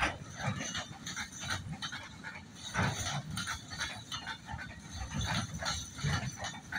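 Freight train's container flat wagons rolling past at low speed, the wheels and couplings making an irregular run of clicks and knocks over a low rumble.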